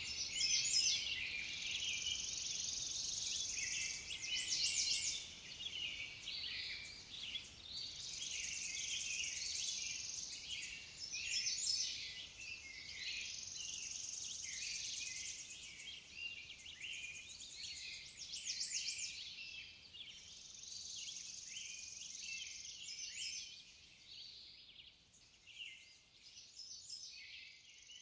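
A chorus of small forest birds chirping and trilling, high-pitched and overlapping, with buzzy stretches between the calls. It gets quieter over the last few seconds.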